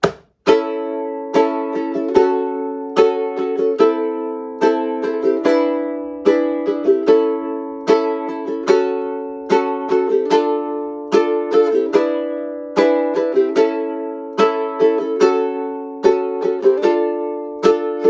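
Ukulele strummed in a steady rhythm, moving through a chord progression, with no singing.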